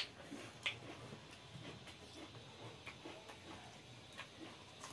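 People chewing and smacking their lips while eating rice and chicken curry by hand: faint, irregular clicks and mouth noises, with one sharper click a little over half a second in.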